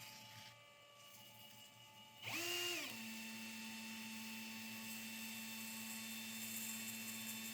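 An electric power tool's motor starts about two seconds in with a brief higher whine, then drops to a lower steady hum as it keeps running.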